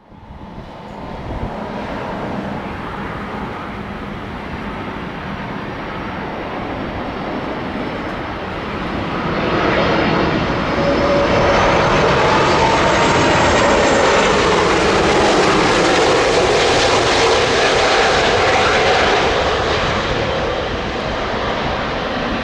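An Airbus A330-243's Rolls-Royce Trent 700 turbofan engines as the airliner arrives to land. A rushing jet roar with a high whine over it grows louder from about ten seconds in, then eases a little near the end.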